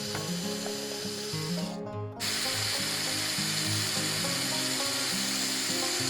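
A power tool, likely an electric drill, running steadily over background music, with a brief break about two seconds in.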